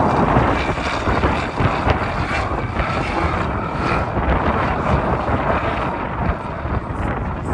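Wind buffeting the microphone over the engine of an off-road race vehicle running on the hill.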